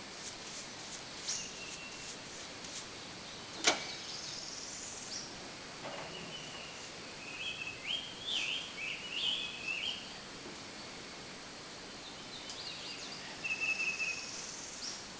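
Songbirds chirping and warbling in short phrases, busiest in the middle and again near the end. A single sharp knock about a third of the way in stands out as the loudest sound, with a few faint ticks.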